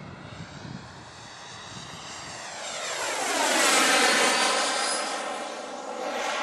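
A radio-controlled model jet's gas turbine flies past. Its whine and rush build to a peak about four seconds in, then drop in pitch as it goes by.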